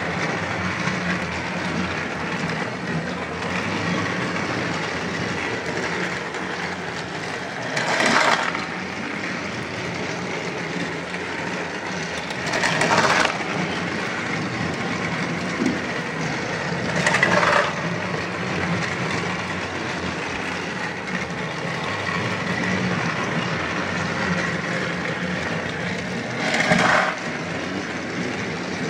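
Battery-powered Thomas & Friends toy trains running along plastic track: a steady small-motor hum and wheel rattle, swelling into a louder clatter four times.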